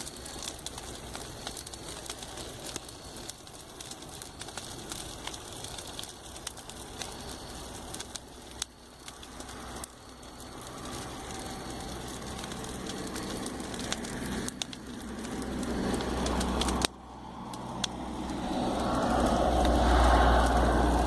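Campfire crackling with scattered sharp pops while vehicles pass on a road. A vehicle's rumble builds from about ten seconds in and cuts off abruptly, then a louder one swells near the end.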